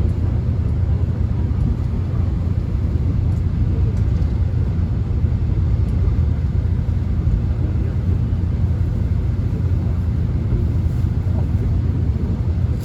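Korean subway train running at speed, heard from inside the car: a steady low rumble with a rushing haze of track and wheel noise over it.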